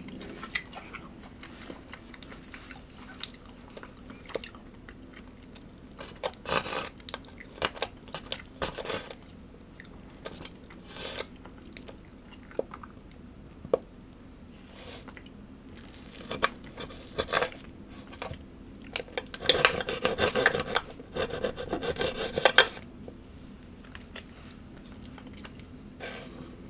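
A person eating up close to the microphone: bouts of chewing and crunching with scattered sharp clicks. The longest and loudest stretch of crunching comes about twenty seconds in.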